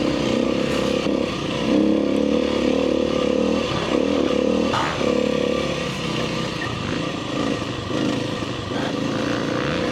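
Kawasaki KLX300R dirt bike's single-cylinder four-stroke engine running at a steady, moderate pace on a trail, with small changes in engine speed and a short knock about halfway through.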